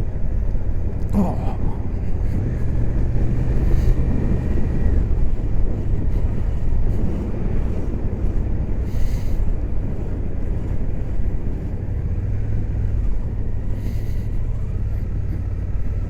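Suzuki GSX-8S parallel-twin engine running on the move, heard through a helmet microphone with steady wind rush over it; the engine note shifts a couple of times as the throttle changes.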